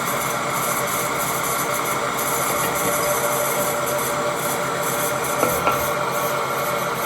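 Steady, loud rasping noise of metalworking on the axle flange, with two short clicks about five and a half seconds in.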